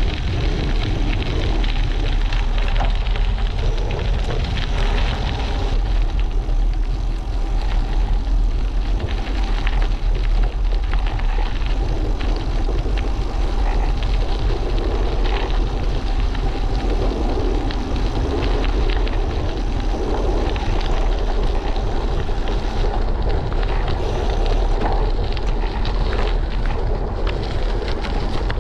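Steady rush of wind buffeting the camera microphone while cycling, mixed with the hiss and crackle of bicycle tyres on the road.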